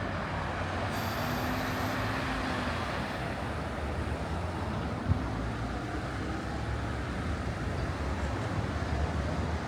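Street traffic noise: motor vehicles running past on a city street in a steady rumble, with one short knock about five seconds in.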